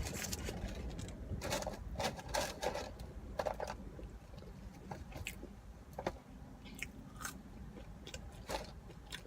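Close-up eating sounds: a person biting and chewing a cheeseburger and fries, with crisp crackles coming in clusters, loudest in the first few seconds.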